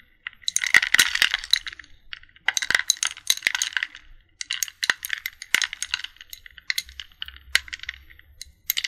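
Ice cubes in a bowl crackling and clinking as they melt, a squeaky crackle that comes in four dense bursts of tiny cracks and ticks with short pauses between.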